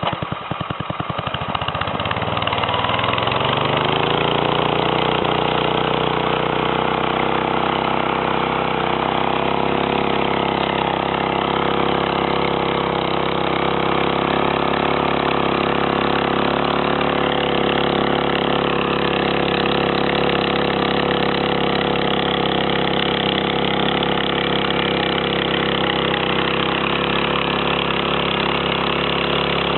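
A farm machine's engine chugging with slow, separate firing pulses at first, then picking up speed over the first few seconds and settling into a steady run.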